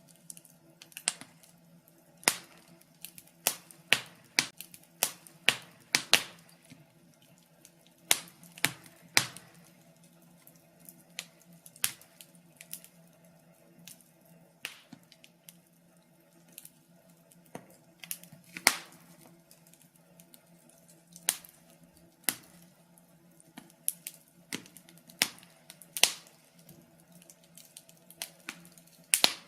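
Wood fire crackling in a fireplace: irregular sharp pops and snaps of burning logs, some much louder than the rest, over a faint steady hum.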